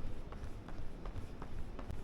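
Running footsteps on a city footpath: quick, regular footfalls about three a second over a low rumble of street noise.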